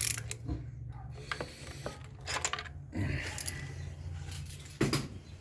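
Metal hand tools and parts clinking and clattering during a spark-plug change, about half a dozen sharp clinks over a steady low hum.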